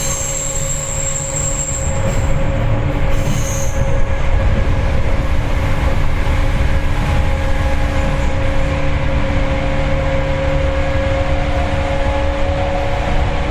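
Seibu 4000 series electric train running at steady speed, heard inside the passenger car: a continuous rumble of wheels on rail with a steady motor and gear hum. High-pitched wheel squeal, typical of a curve, comes twice in the first four seconds.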